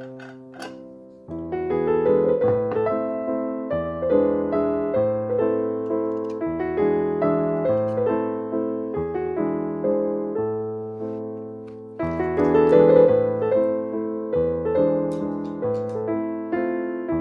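Background music: soft piano melody with chords, notes struck in a steady gentle rhythm, briefly thinning out about a second in and again around twelve seconds in.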